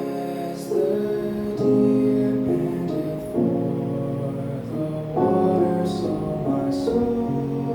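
Instrumental music on a keyboard instrument: slow sustained chords that change about once a second.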